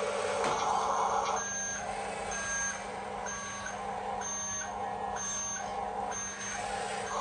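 RC toy dump truck's electronic reversing beeper, six even beeps about a second apart as the truck backs up. Its electric motor and gears whine before the beeps start and again near the end.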